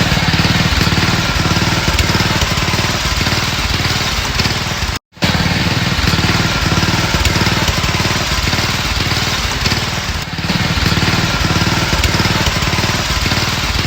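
Riding-mower engine running through a tack-welded dual exhaust with two mufflers, an even, rapid pulsing exhaust note that sounds kind of like a motorcycle or dirt bike. The sound cuts out for an instant about five seconds in.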